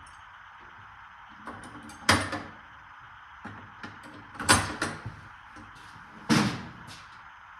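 Metal hand tools clanking, such as sockets and wrenches being handled and set down while hunting for the right size. There are three louder clanks about two seconds apart, each ringing briefly, with lighter clicks and rattles between them.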